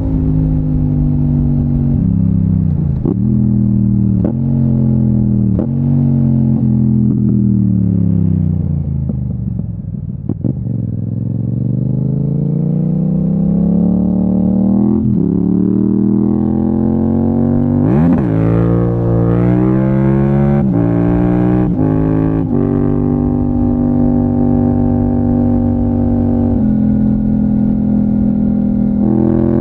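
Yamaha MT-07 parallel-twin engine through an Akrapovic exhaust, heard while riding. The pitch steps down through several gear changes and falls to a low about a third in, then climbs steadily under acceleration. A sharp rev blip about two-thirds in is followed by quick shifts, then steady cruising.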